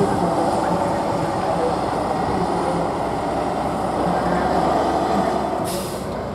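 Competition truck's diesel engine running steadily, heard as a continuous noise, with a short burst of hiss near the end.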